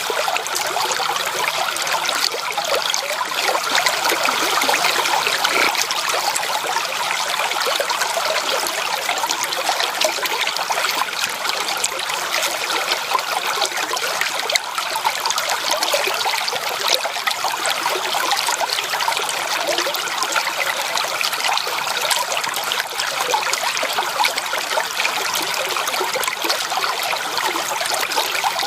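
Flowing stream water, a steady, unbroken rushing and trickling without pauses or changes.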